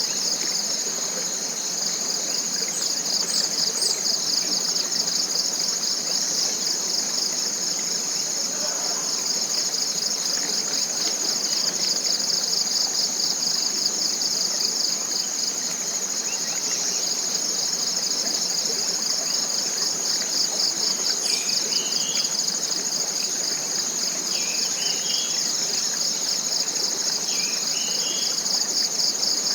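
Steady, high-pitched, fast-pulsing drone of forest insects in a tropical forest. A bird gives three short rising calls, each a couple of seconds apart, in the second half.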